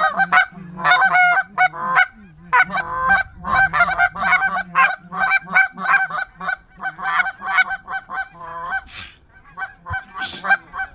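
Geese calling: a dense run of short, pitched honks and clucks, many overlapping, with a brief lull near the end.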